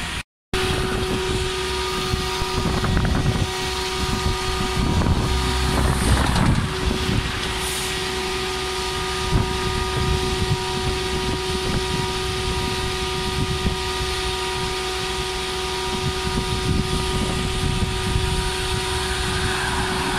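Road traffic noise: a steady, even engine hum from a vehicle idling close by, over an irregular low rumble. The sound cuts out for a moment just after the start.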